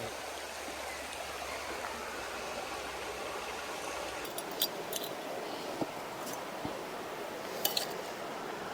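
A woodland river rushing steadily, running high with extra water after a night of heavy rain. Several short, sharp clicks sound over it in the second half.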